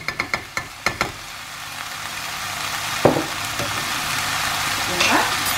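Chicken thighs sizzling in a hot, oil-free pan, with the sizzle slowly growing louder. In the first second a spoon taps rapidly against the pan, about five clicks a second, as the red Thai curry paste is knocked off it. There is a single knock about three seconds in.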